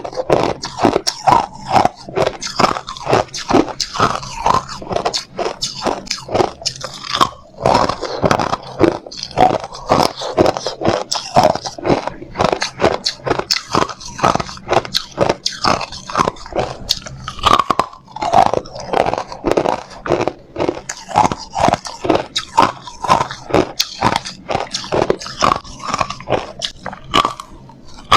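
Hard ice being bitten and chewed close to the microphone: a quick, continuous run of sharp crunches, several a second.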